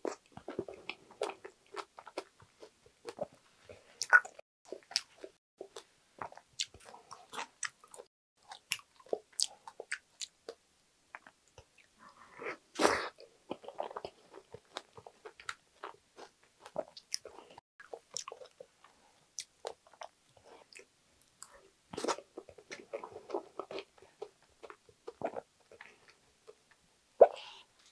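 Close-miked chewing of a soft, milk-soaked strawberry cheesecake, with light crunching of its crumble topping and many sharp wet mouth clicks. It is louder and denser about thirteen and twenty-two seconds in.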